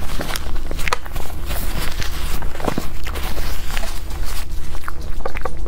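Close-miked eating: a soft dessert being bitten and chewed, with irregular wet mouth clicks and smacks over a steady low hum.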